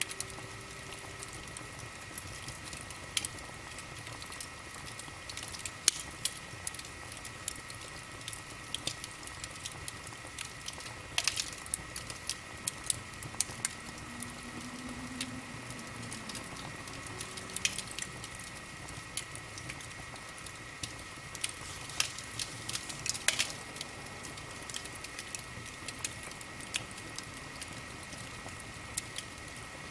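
Wood fire burning in a fireplace, crackling with irregular sharp pops over a steady hiss.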